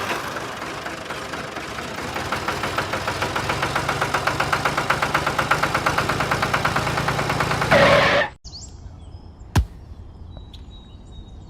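Small engine running with a rapid, even beat that cuts off suddenly about eight seconds in. After it, quieter outdoor background with a single sharp click and faint bird chirps.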